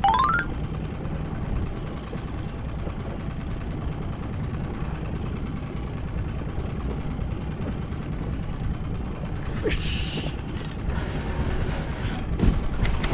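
Steady low rumble of a small fishing boat's engine running at idle. A short rising whistle sounds at the very start, and from about ten seconds in clicks and high steady tones come in.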